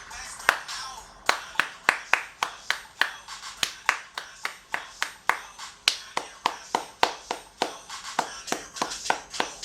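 A run of sharp slaps or clicks in a quick, uneven rhythm, about two or three a second.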